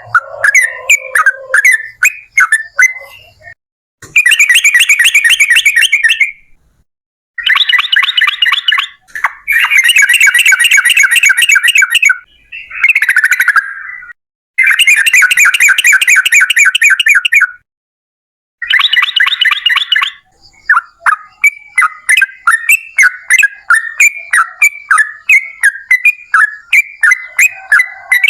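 Yellow-vented bulbul singing: fast, rattling runs of repeated notes (a long 'ropel' trill) in bursts of two to three seconds with short silences between, then quicker separate chirps, about three a second, in the last third.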